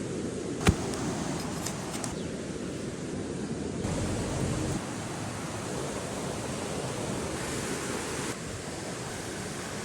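Campfire burning: a steady hiss with a few faint crackles and one sharp pop about a second in.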